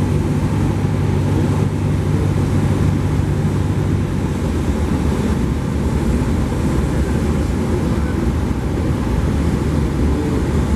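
Cessna 172P's four-cylinder Lycoming engine and propeller running steadily with airflow noise around the airframe, the engine's tone changing slightly about four seconds in.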